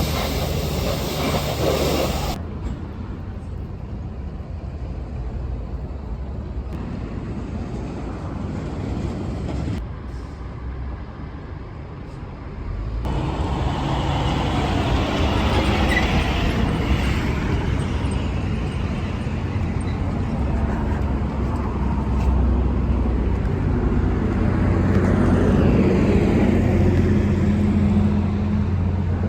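Steady low machine running noise with a rushing, spray-like hiss. It changes abruptly about two seconds in and again around ten and thirteen seconds in.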